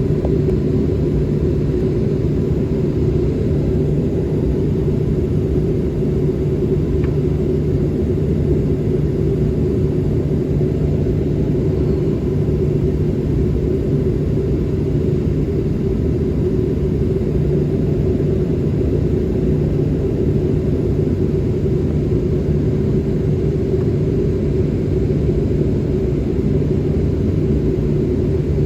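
Steady low rumble of a Boeing 737's jet engines and airflow as heard inside the passenger cabin, holding an even level throughout.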